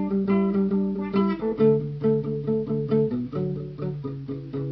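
Guitar music with no singing: chords picked or strummed in a steady rhythm, changing every second or so.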